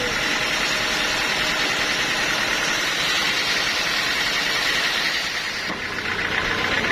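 Sawmill machinery running steadily: a dense hiss with an engine hum under it. Near the end the hiss eases and a lower hum comes up.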